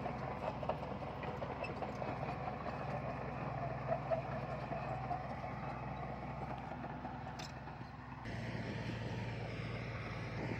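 Diesel engine of heavy earthmoving equipment running steadily, with a dense clattering rattle over the drone. About eight seconds in the sound changes abruptly to a smoother, steady engine drone.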